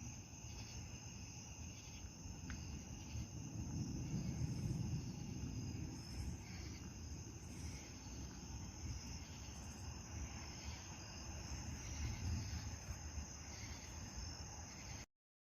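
Crickets chirping steadily, over a low rumbling noise; the sound cuts off abruptly just before the end.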